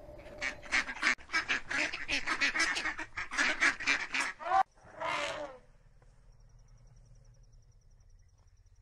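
Waterfowl calling: a fast run of loud, short calls for about four seconds, then one longer call about five seconds in.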